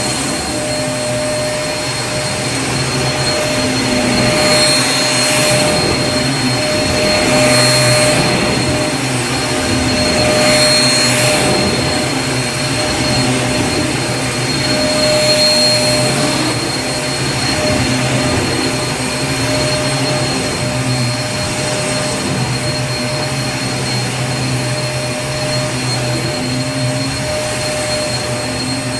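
Vacuum cleaner running continuously: a steady motor whine over rushing air, with the airflow swelling and easing a few times in the first half.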